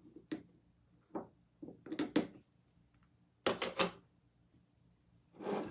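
Handling noises from rope being coiled and glued on a craft table: several short clusters of quick knocks and clicks, then a longer rustle near the end.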